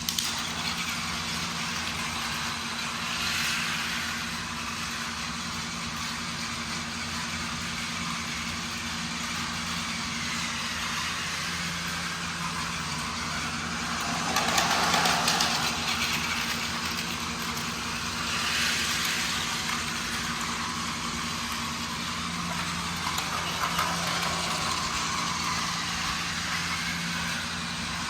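Plarail toy train's small battery motor running, with the train rolling on plastic track. The steady whirr swells louder three times, most strongly about halfway through.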